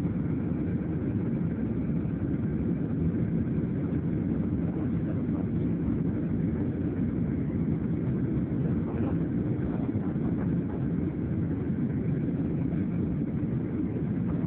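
EasyJet jet airliner's engines during takeoff: a steady, even low rumble with no change in pitch or level.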